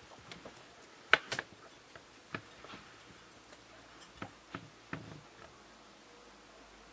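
Guinea pigs moving about in their enclosure: scattered sharp clicks and taps, a few at a time, the loudest two close together a little over a second in.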